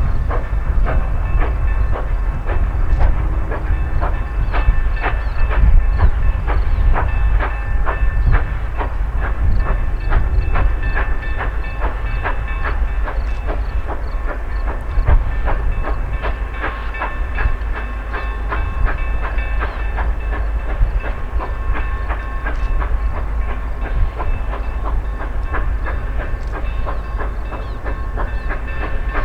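A train hauled by the 2-8-2 steam locomotive No. 105 is moving on the track. Its wheels clatter over the rail joints in a fast, even run of clicks, with a steady high ringing tone held above them.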